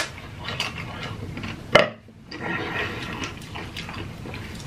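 Close-miked eating sounds: chewing and wet mouth noises, with one sharp, loud click a little under two seconds in.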